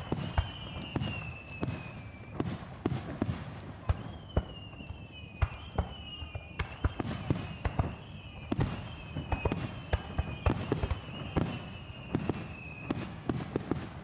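Fireworks display: aerial shells bursting in quick succession, sharp bangs and cracks several times a second over a steady low rumble of echoing booms. A faint high falling tone recurs about once a second.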